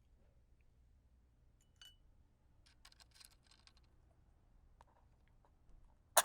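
Faint clicks and small rattles of wooden matches and their box being handled, then right at the end a wooden match struck sharply against the box, flaring with a hiss.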